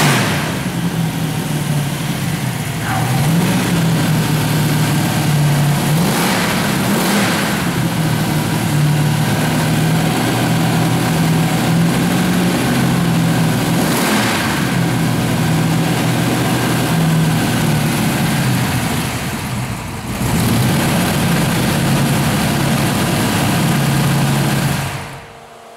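Aluminium-block 409 V8 engine running on its first start-up, idling with a few brief revs, then shut off near the end.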